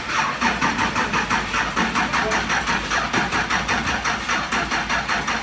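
Box Chevy's engine being cranked over by its starter in an even, steady rhythm of about four to five pulses a second, without catching.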